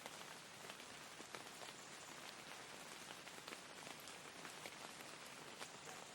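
Soft, steady rain: an even hiss with many small, separate drops ticking through it.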